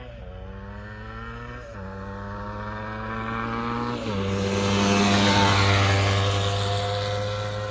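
Yamaha DT125 two-stroke single-cylinder dirt bike engine accelerating hard through the gears, its pitch climbing and dropping back at two upshifts about 1.7 and 4 seconds in. It grows louder as the bike approaches, peaks past the halfway point and then fades as it goes by.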